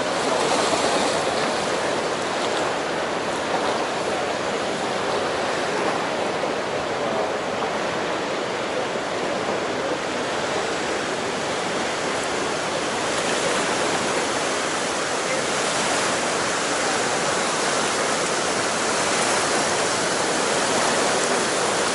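Colorado River water rushing steadily, a continuous roar of churning current.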